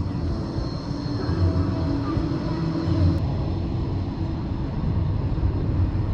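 Steady low mechanical rumble, as of a vehicle running, with faint steady whining tones above it.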